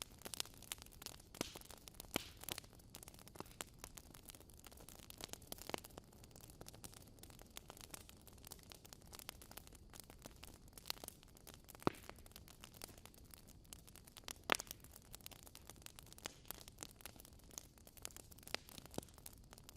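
Wood fire in a fireplace crackling, with irregular small pops over a soft steady hiss and two sharper pops about twelve and fourteen and a half seconds in.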